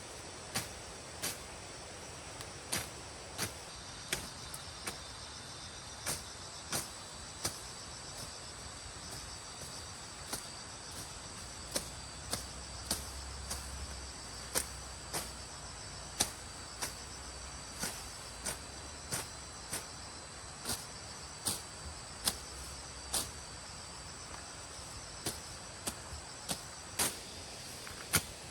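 Steady high insect chirring, with a string of sharp taps or knocks repeating about one and a half times a second.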